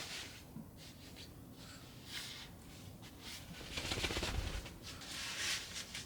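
Soft, intermittent rustling and handling sounds, a few short swishes, with a low thump about four seconds in.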